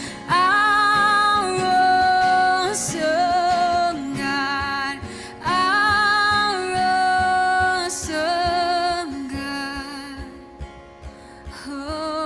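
A contemporary worship song: a woman sings long held notes with vibrato over instrumental backing, and the music eases down about three-quarters of the way through.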